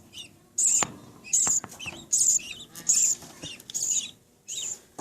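Budgerigars chirping: a steady run of short, raspy, high-pitched cheeps, about one every 0.7 seconds.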